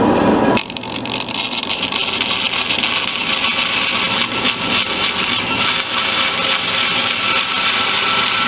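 Bandsaw running and cutting a piece of marine plywood: a loud, steady sawing noise that turns brighter and hissier under a second in.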